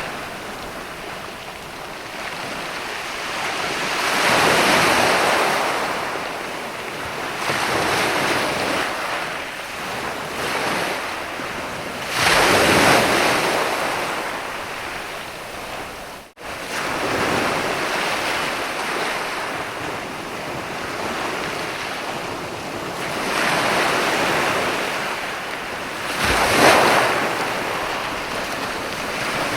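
Sea waves breaking and washing up a sandy beach, swelling and easing every few seconds, the biggest surges about a third of the way in and near the end. The sound drops out for a split second about halfway through.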